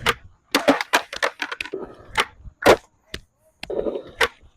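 Skateboard clattering on concrete: the new Baker deck and its trucks slap and clack against the ground in a run of sharp, irregular knocks during failed kickflip attempts.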